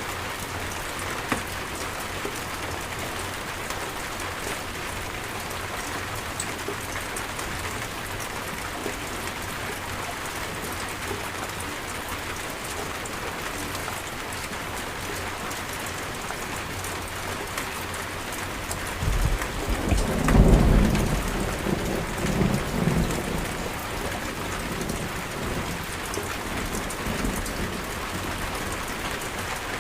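Steady heavy rain pattering on surfaces, with a roll of thunder that rumbles up about two-thirds of the way through and dies away over a few seconds.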